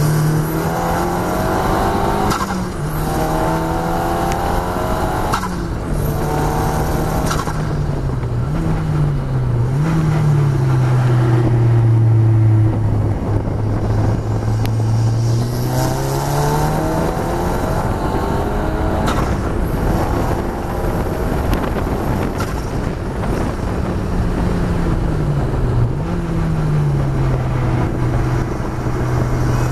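KTM X-Bow's turbocharged Audi 2.0-litre four-cylinder engine heard onboard while lapping a circuit, its pitch rising and falling with throttle, braking and gear changes. Twice there are quick dips and recoveries in pitch, and through the middle it holds low and steady, all over a constant rush of wind and road noise.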